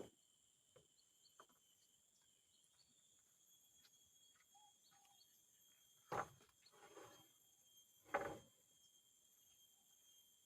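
Steady high insect drone, with two knocks about six and eight seconds in.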